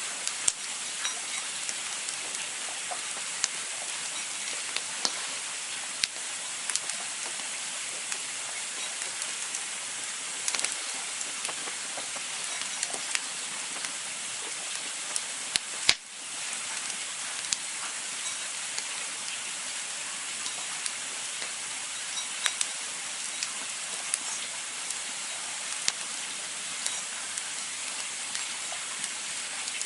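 Campfire crackling: a steady hiss with scattered sharp pops and snaps from the burning wood, one louder pop about halfway through.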